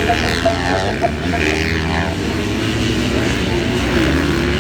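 Several motocross bikes' engines racing together, their overlapping pitches rising and falling as the riders rev through gears and roll off the throttle.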